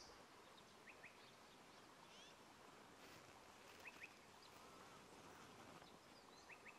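Near-silent bush ambience with faint, short high bird chirps, mostly in quick pairs, repeating about four times.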